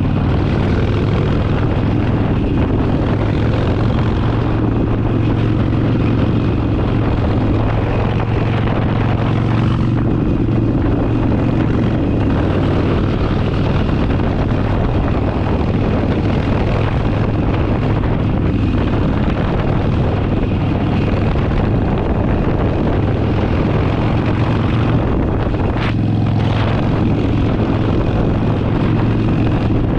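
Harley-Davidson Forty-Eight's 1200 cc V-twin running steadily under way, with a rush of wind and road noise; its note breaks briefly near the end, as at a gear change or throttle lift.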